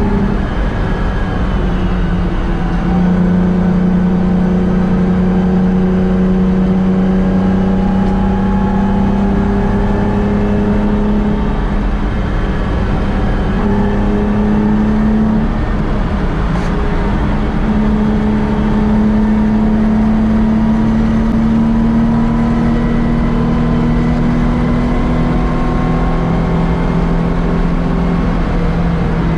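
Nissan 350Z's 3.5-litre V6, fitted with headers, sport catalysts and an aftermarket exhaust, pulling hard under acceleration, heard from inside the car. The engine note climbs slowly as speed builds, over steady tyre and wind noise.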